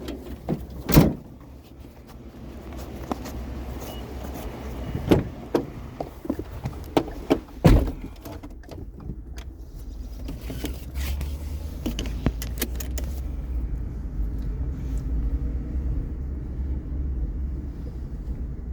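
A few sharp knocks and clunks in the first half, then a vehicle engine running with a steady low rumble from about eight seconds in.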